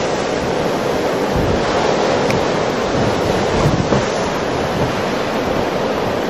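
Strong blizzard wind blowing hard and buffeting the microphone: a loud, steady rush with gusty rumbling in the low end.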